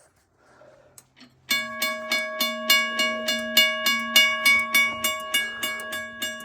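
Railroad crossing signal bell starting up about a second and a half in and striking repeatedly, about four strikes a second, each strike ringing on. The strikes come a little unevenly; the owner hears the bell not keeping a normal beat and puts it down to a power adapter too weak to run the crossing.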